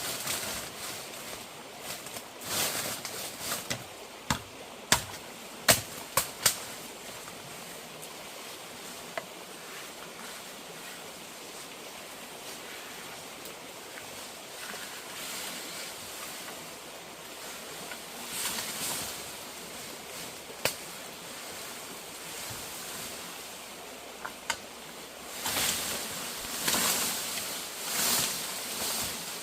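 Outdoor hiss with a quick run of sharp knocks a few seconds in, one more knock past the middle, and rustling near the end.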